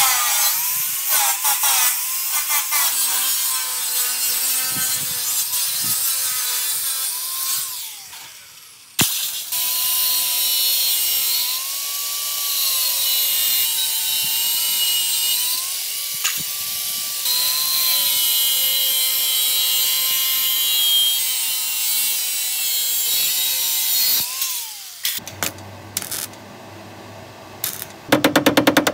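Handheld power tool working metal body panel in two long runs, broken by a short pause about eight seconds in. Its whine wavers with load and winds down each time it stops. Quieter clatter and a few sharp knocks follow near the end.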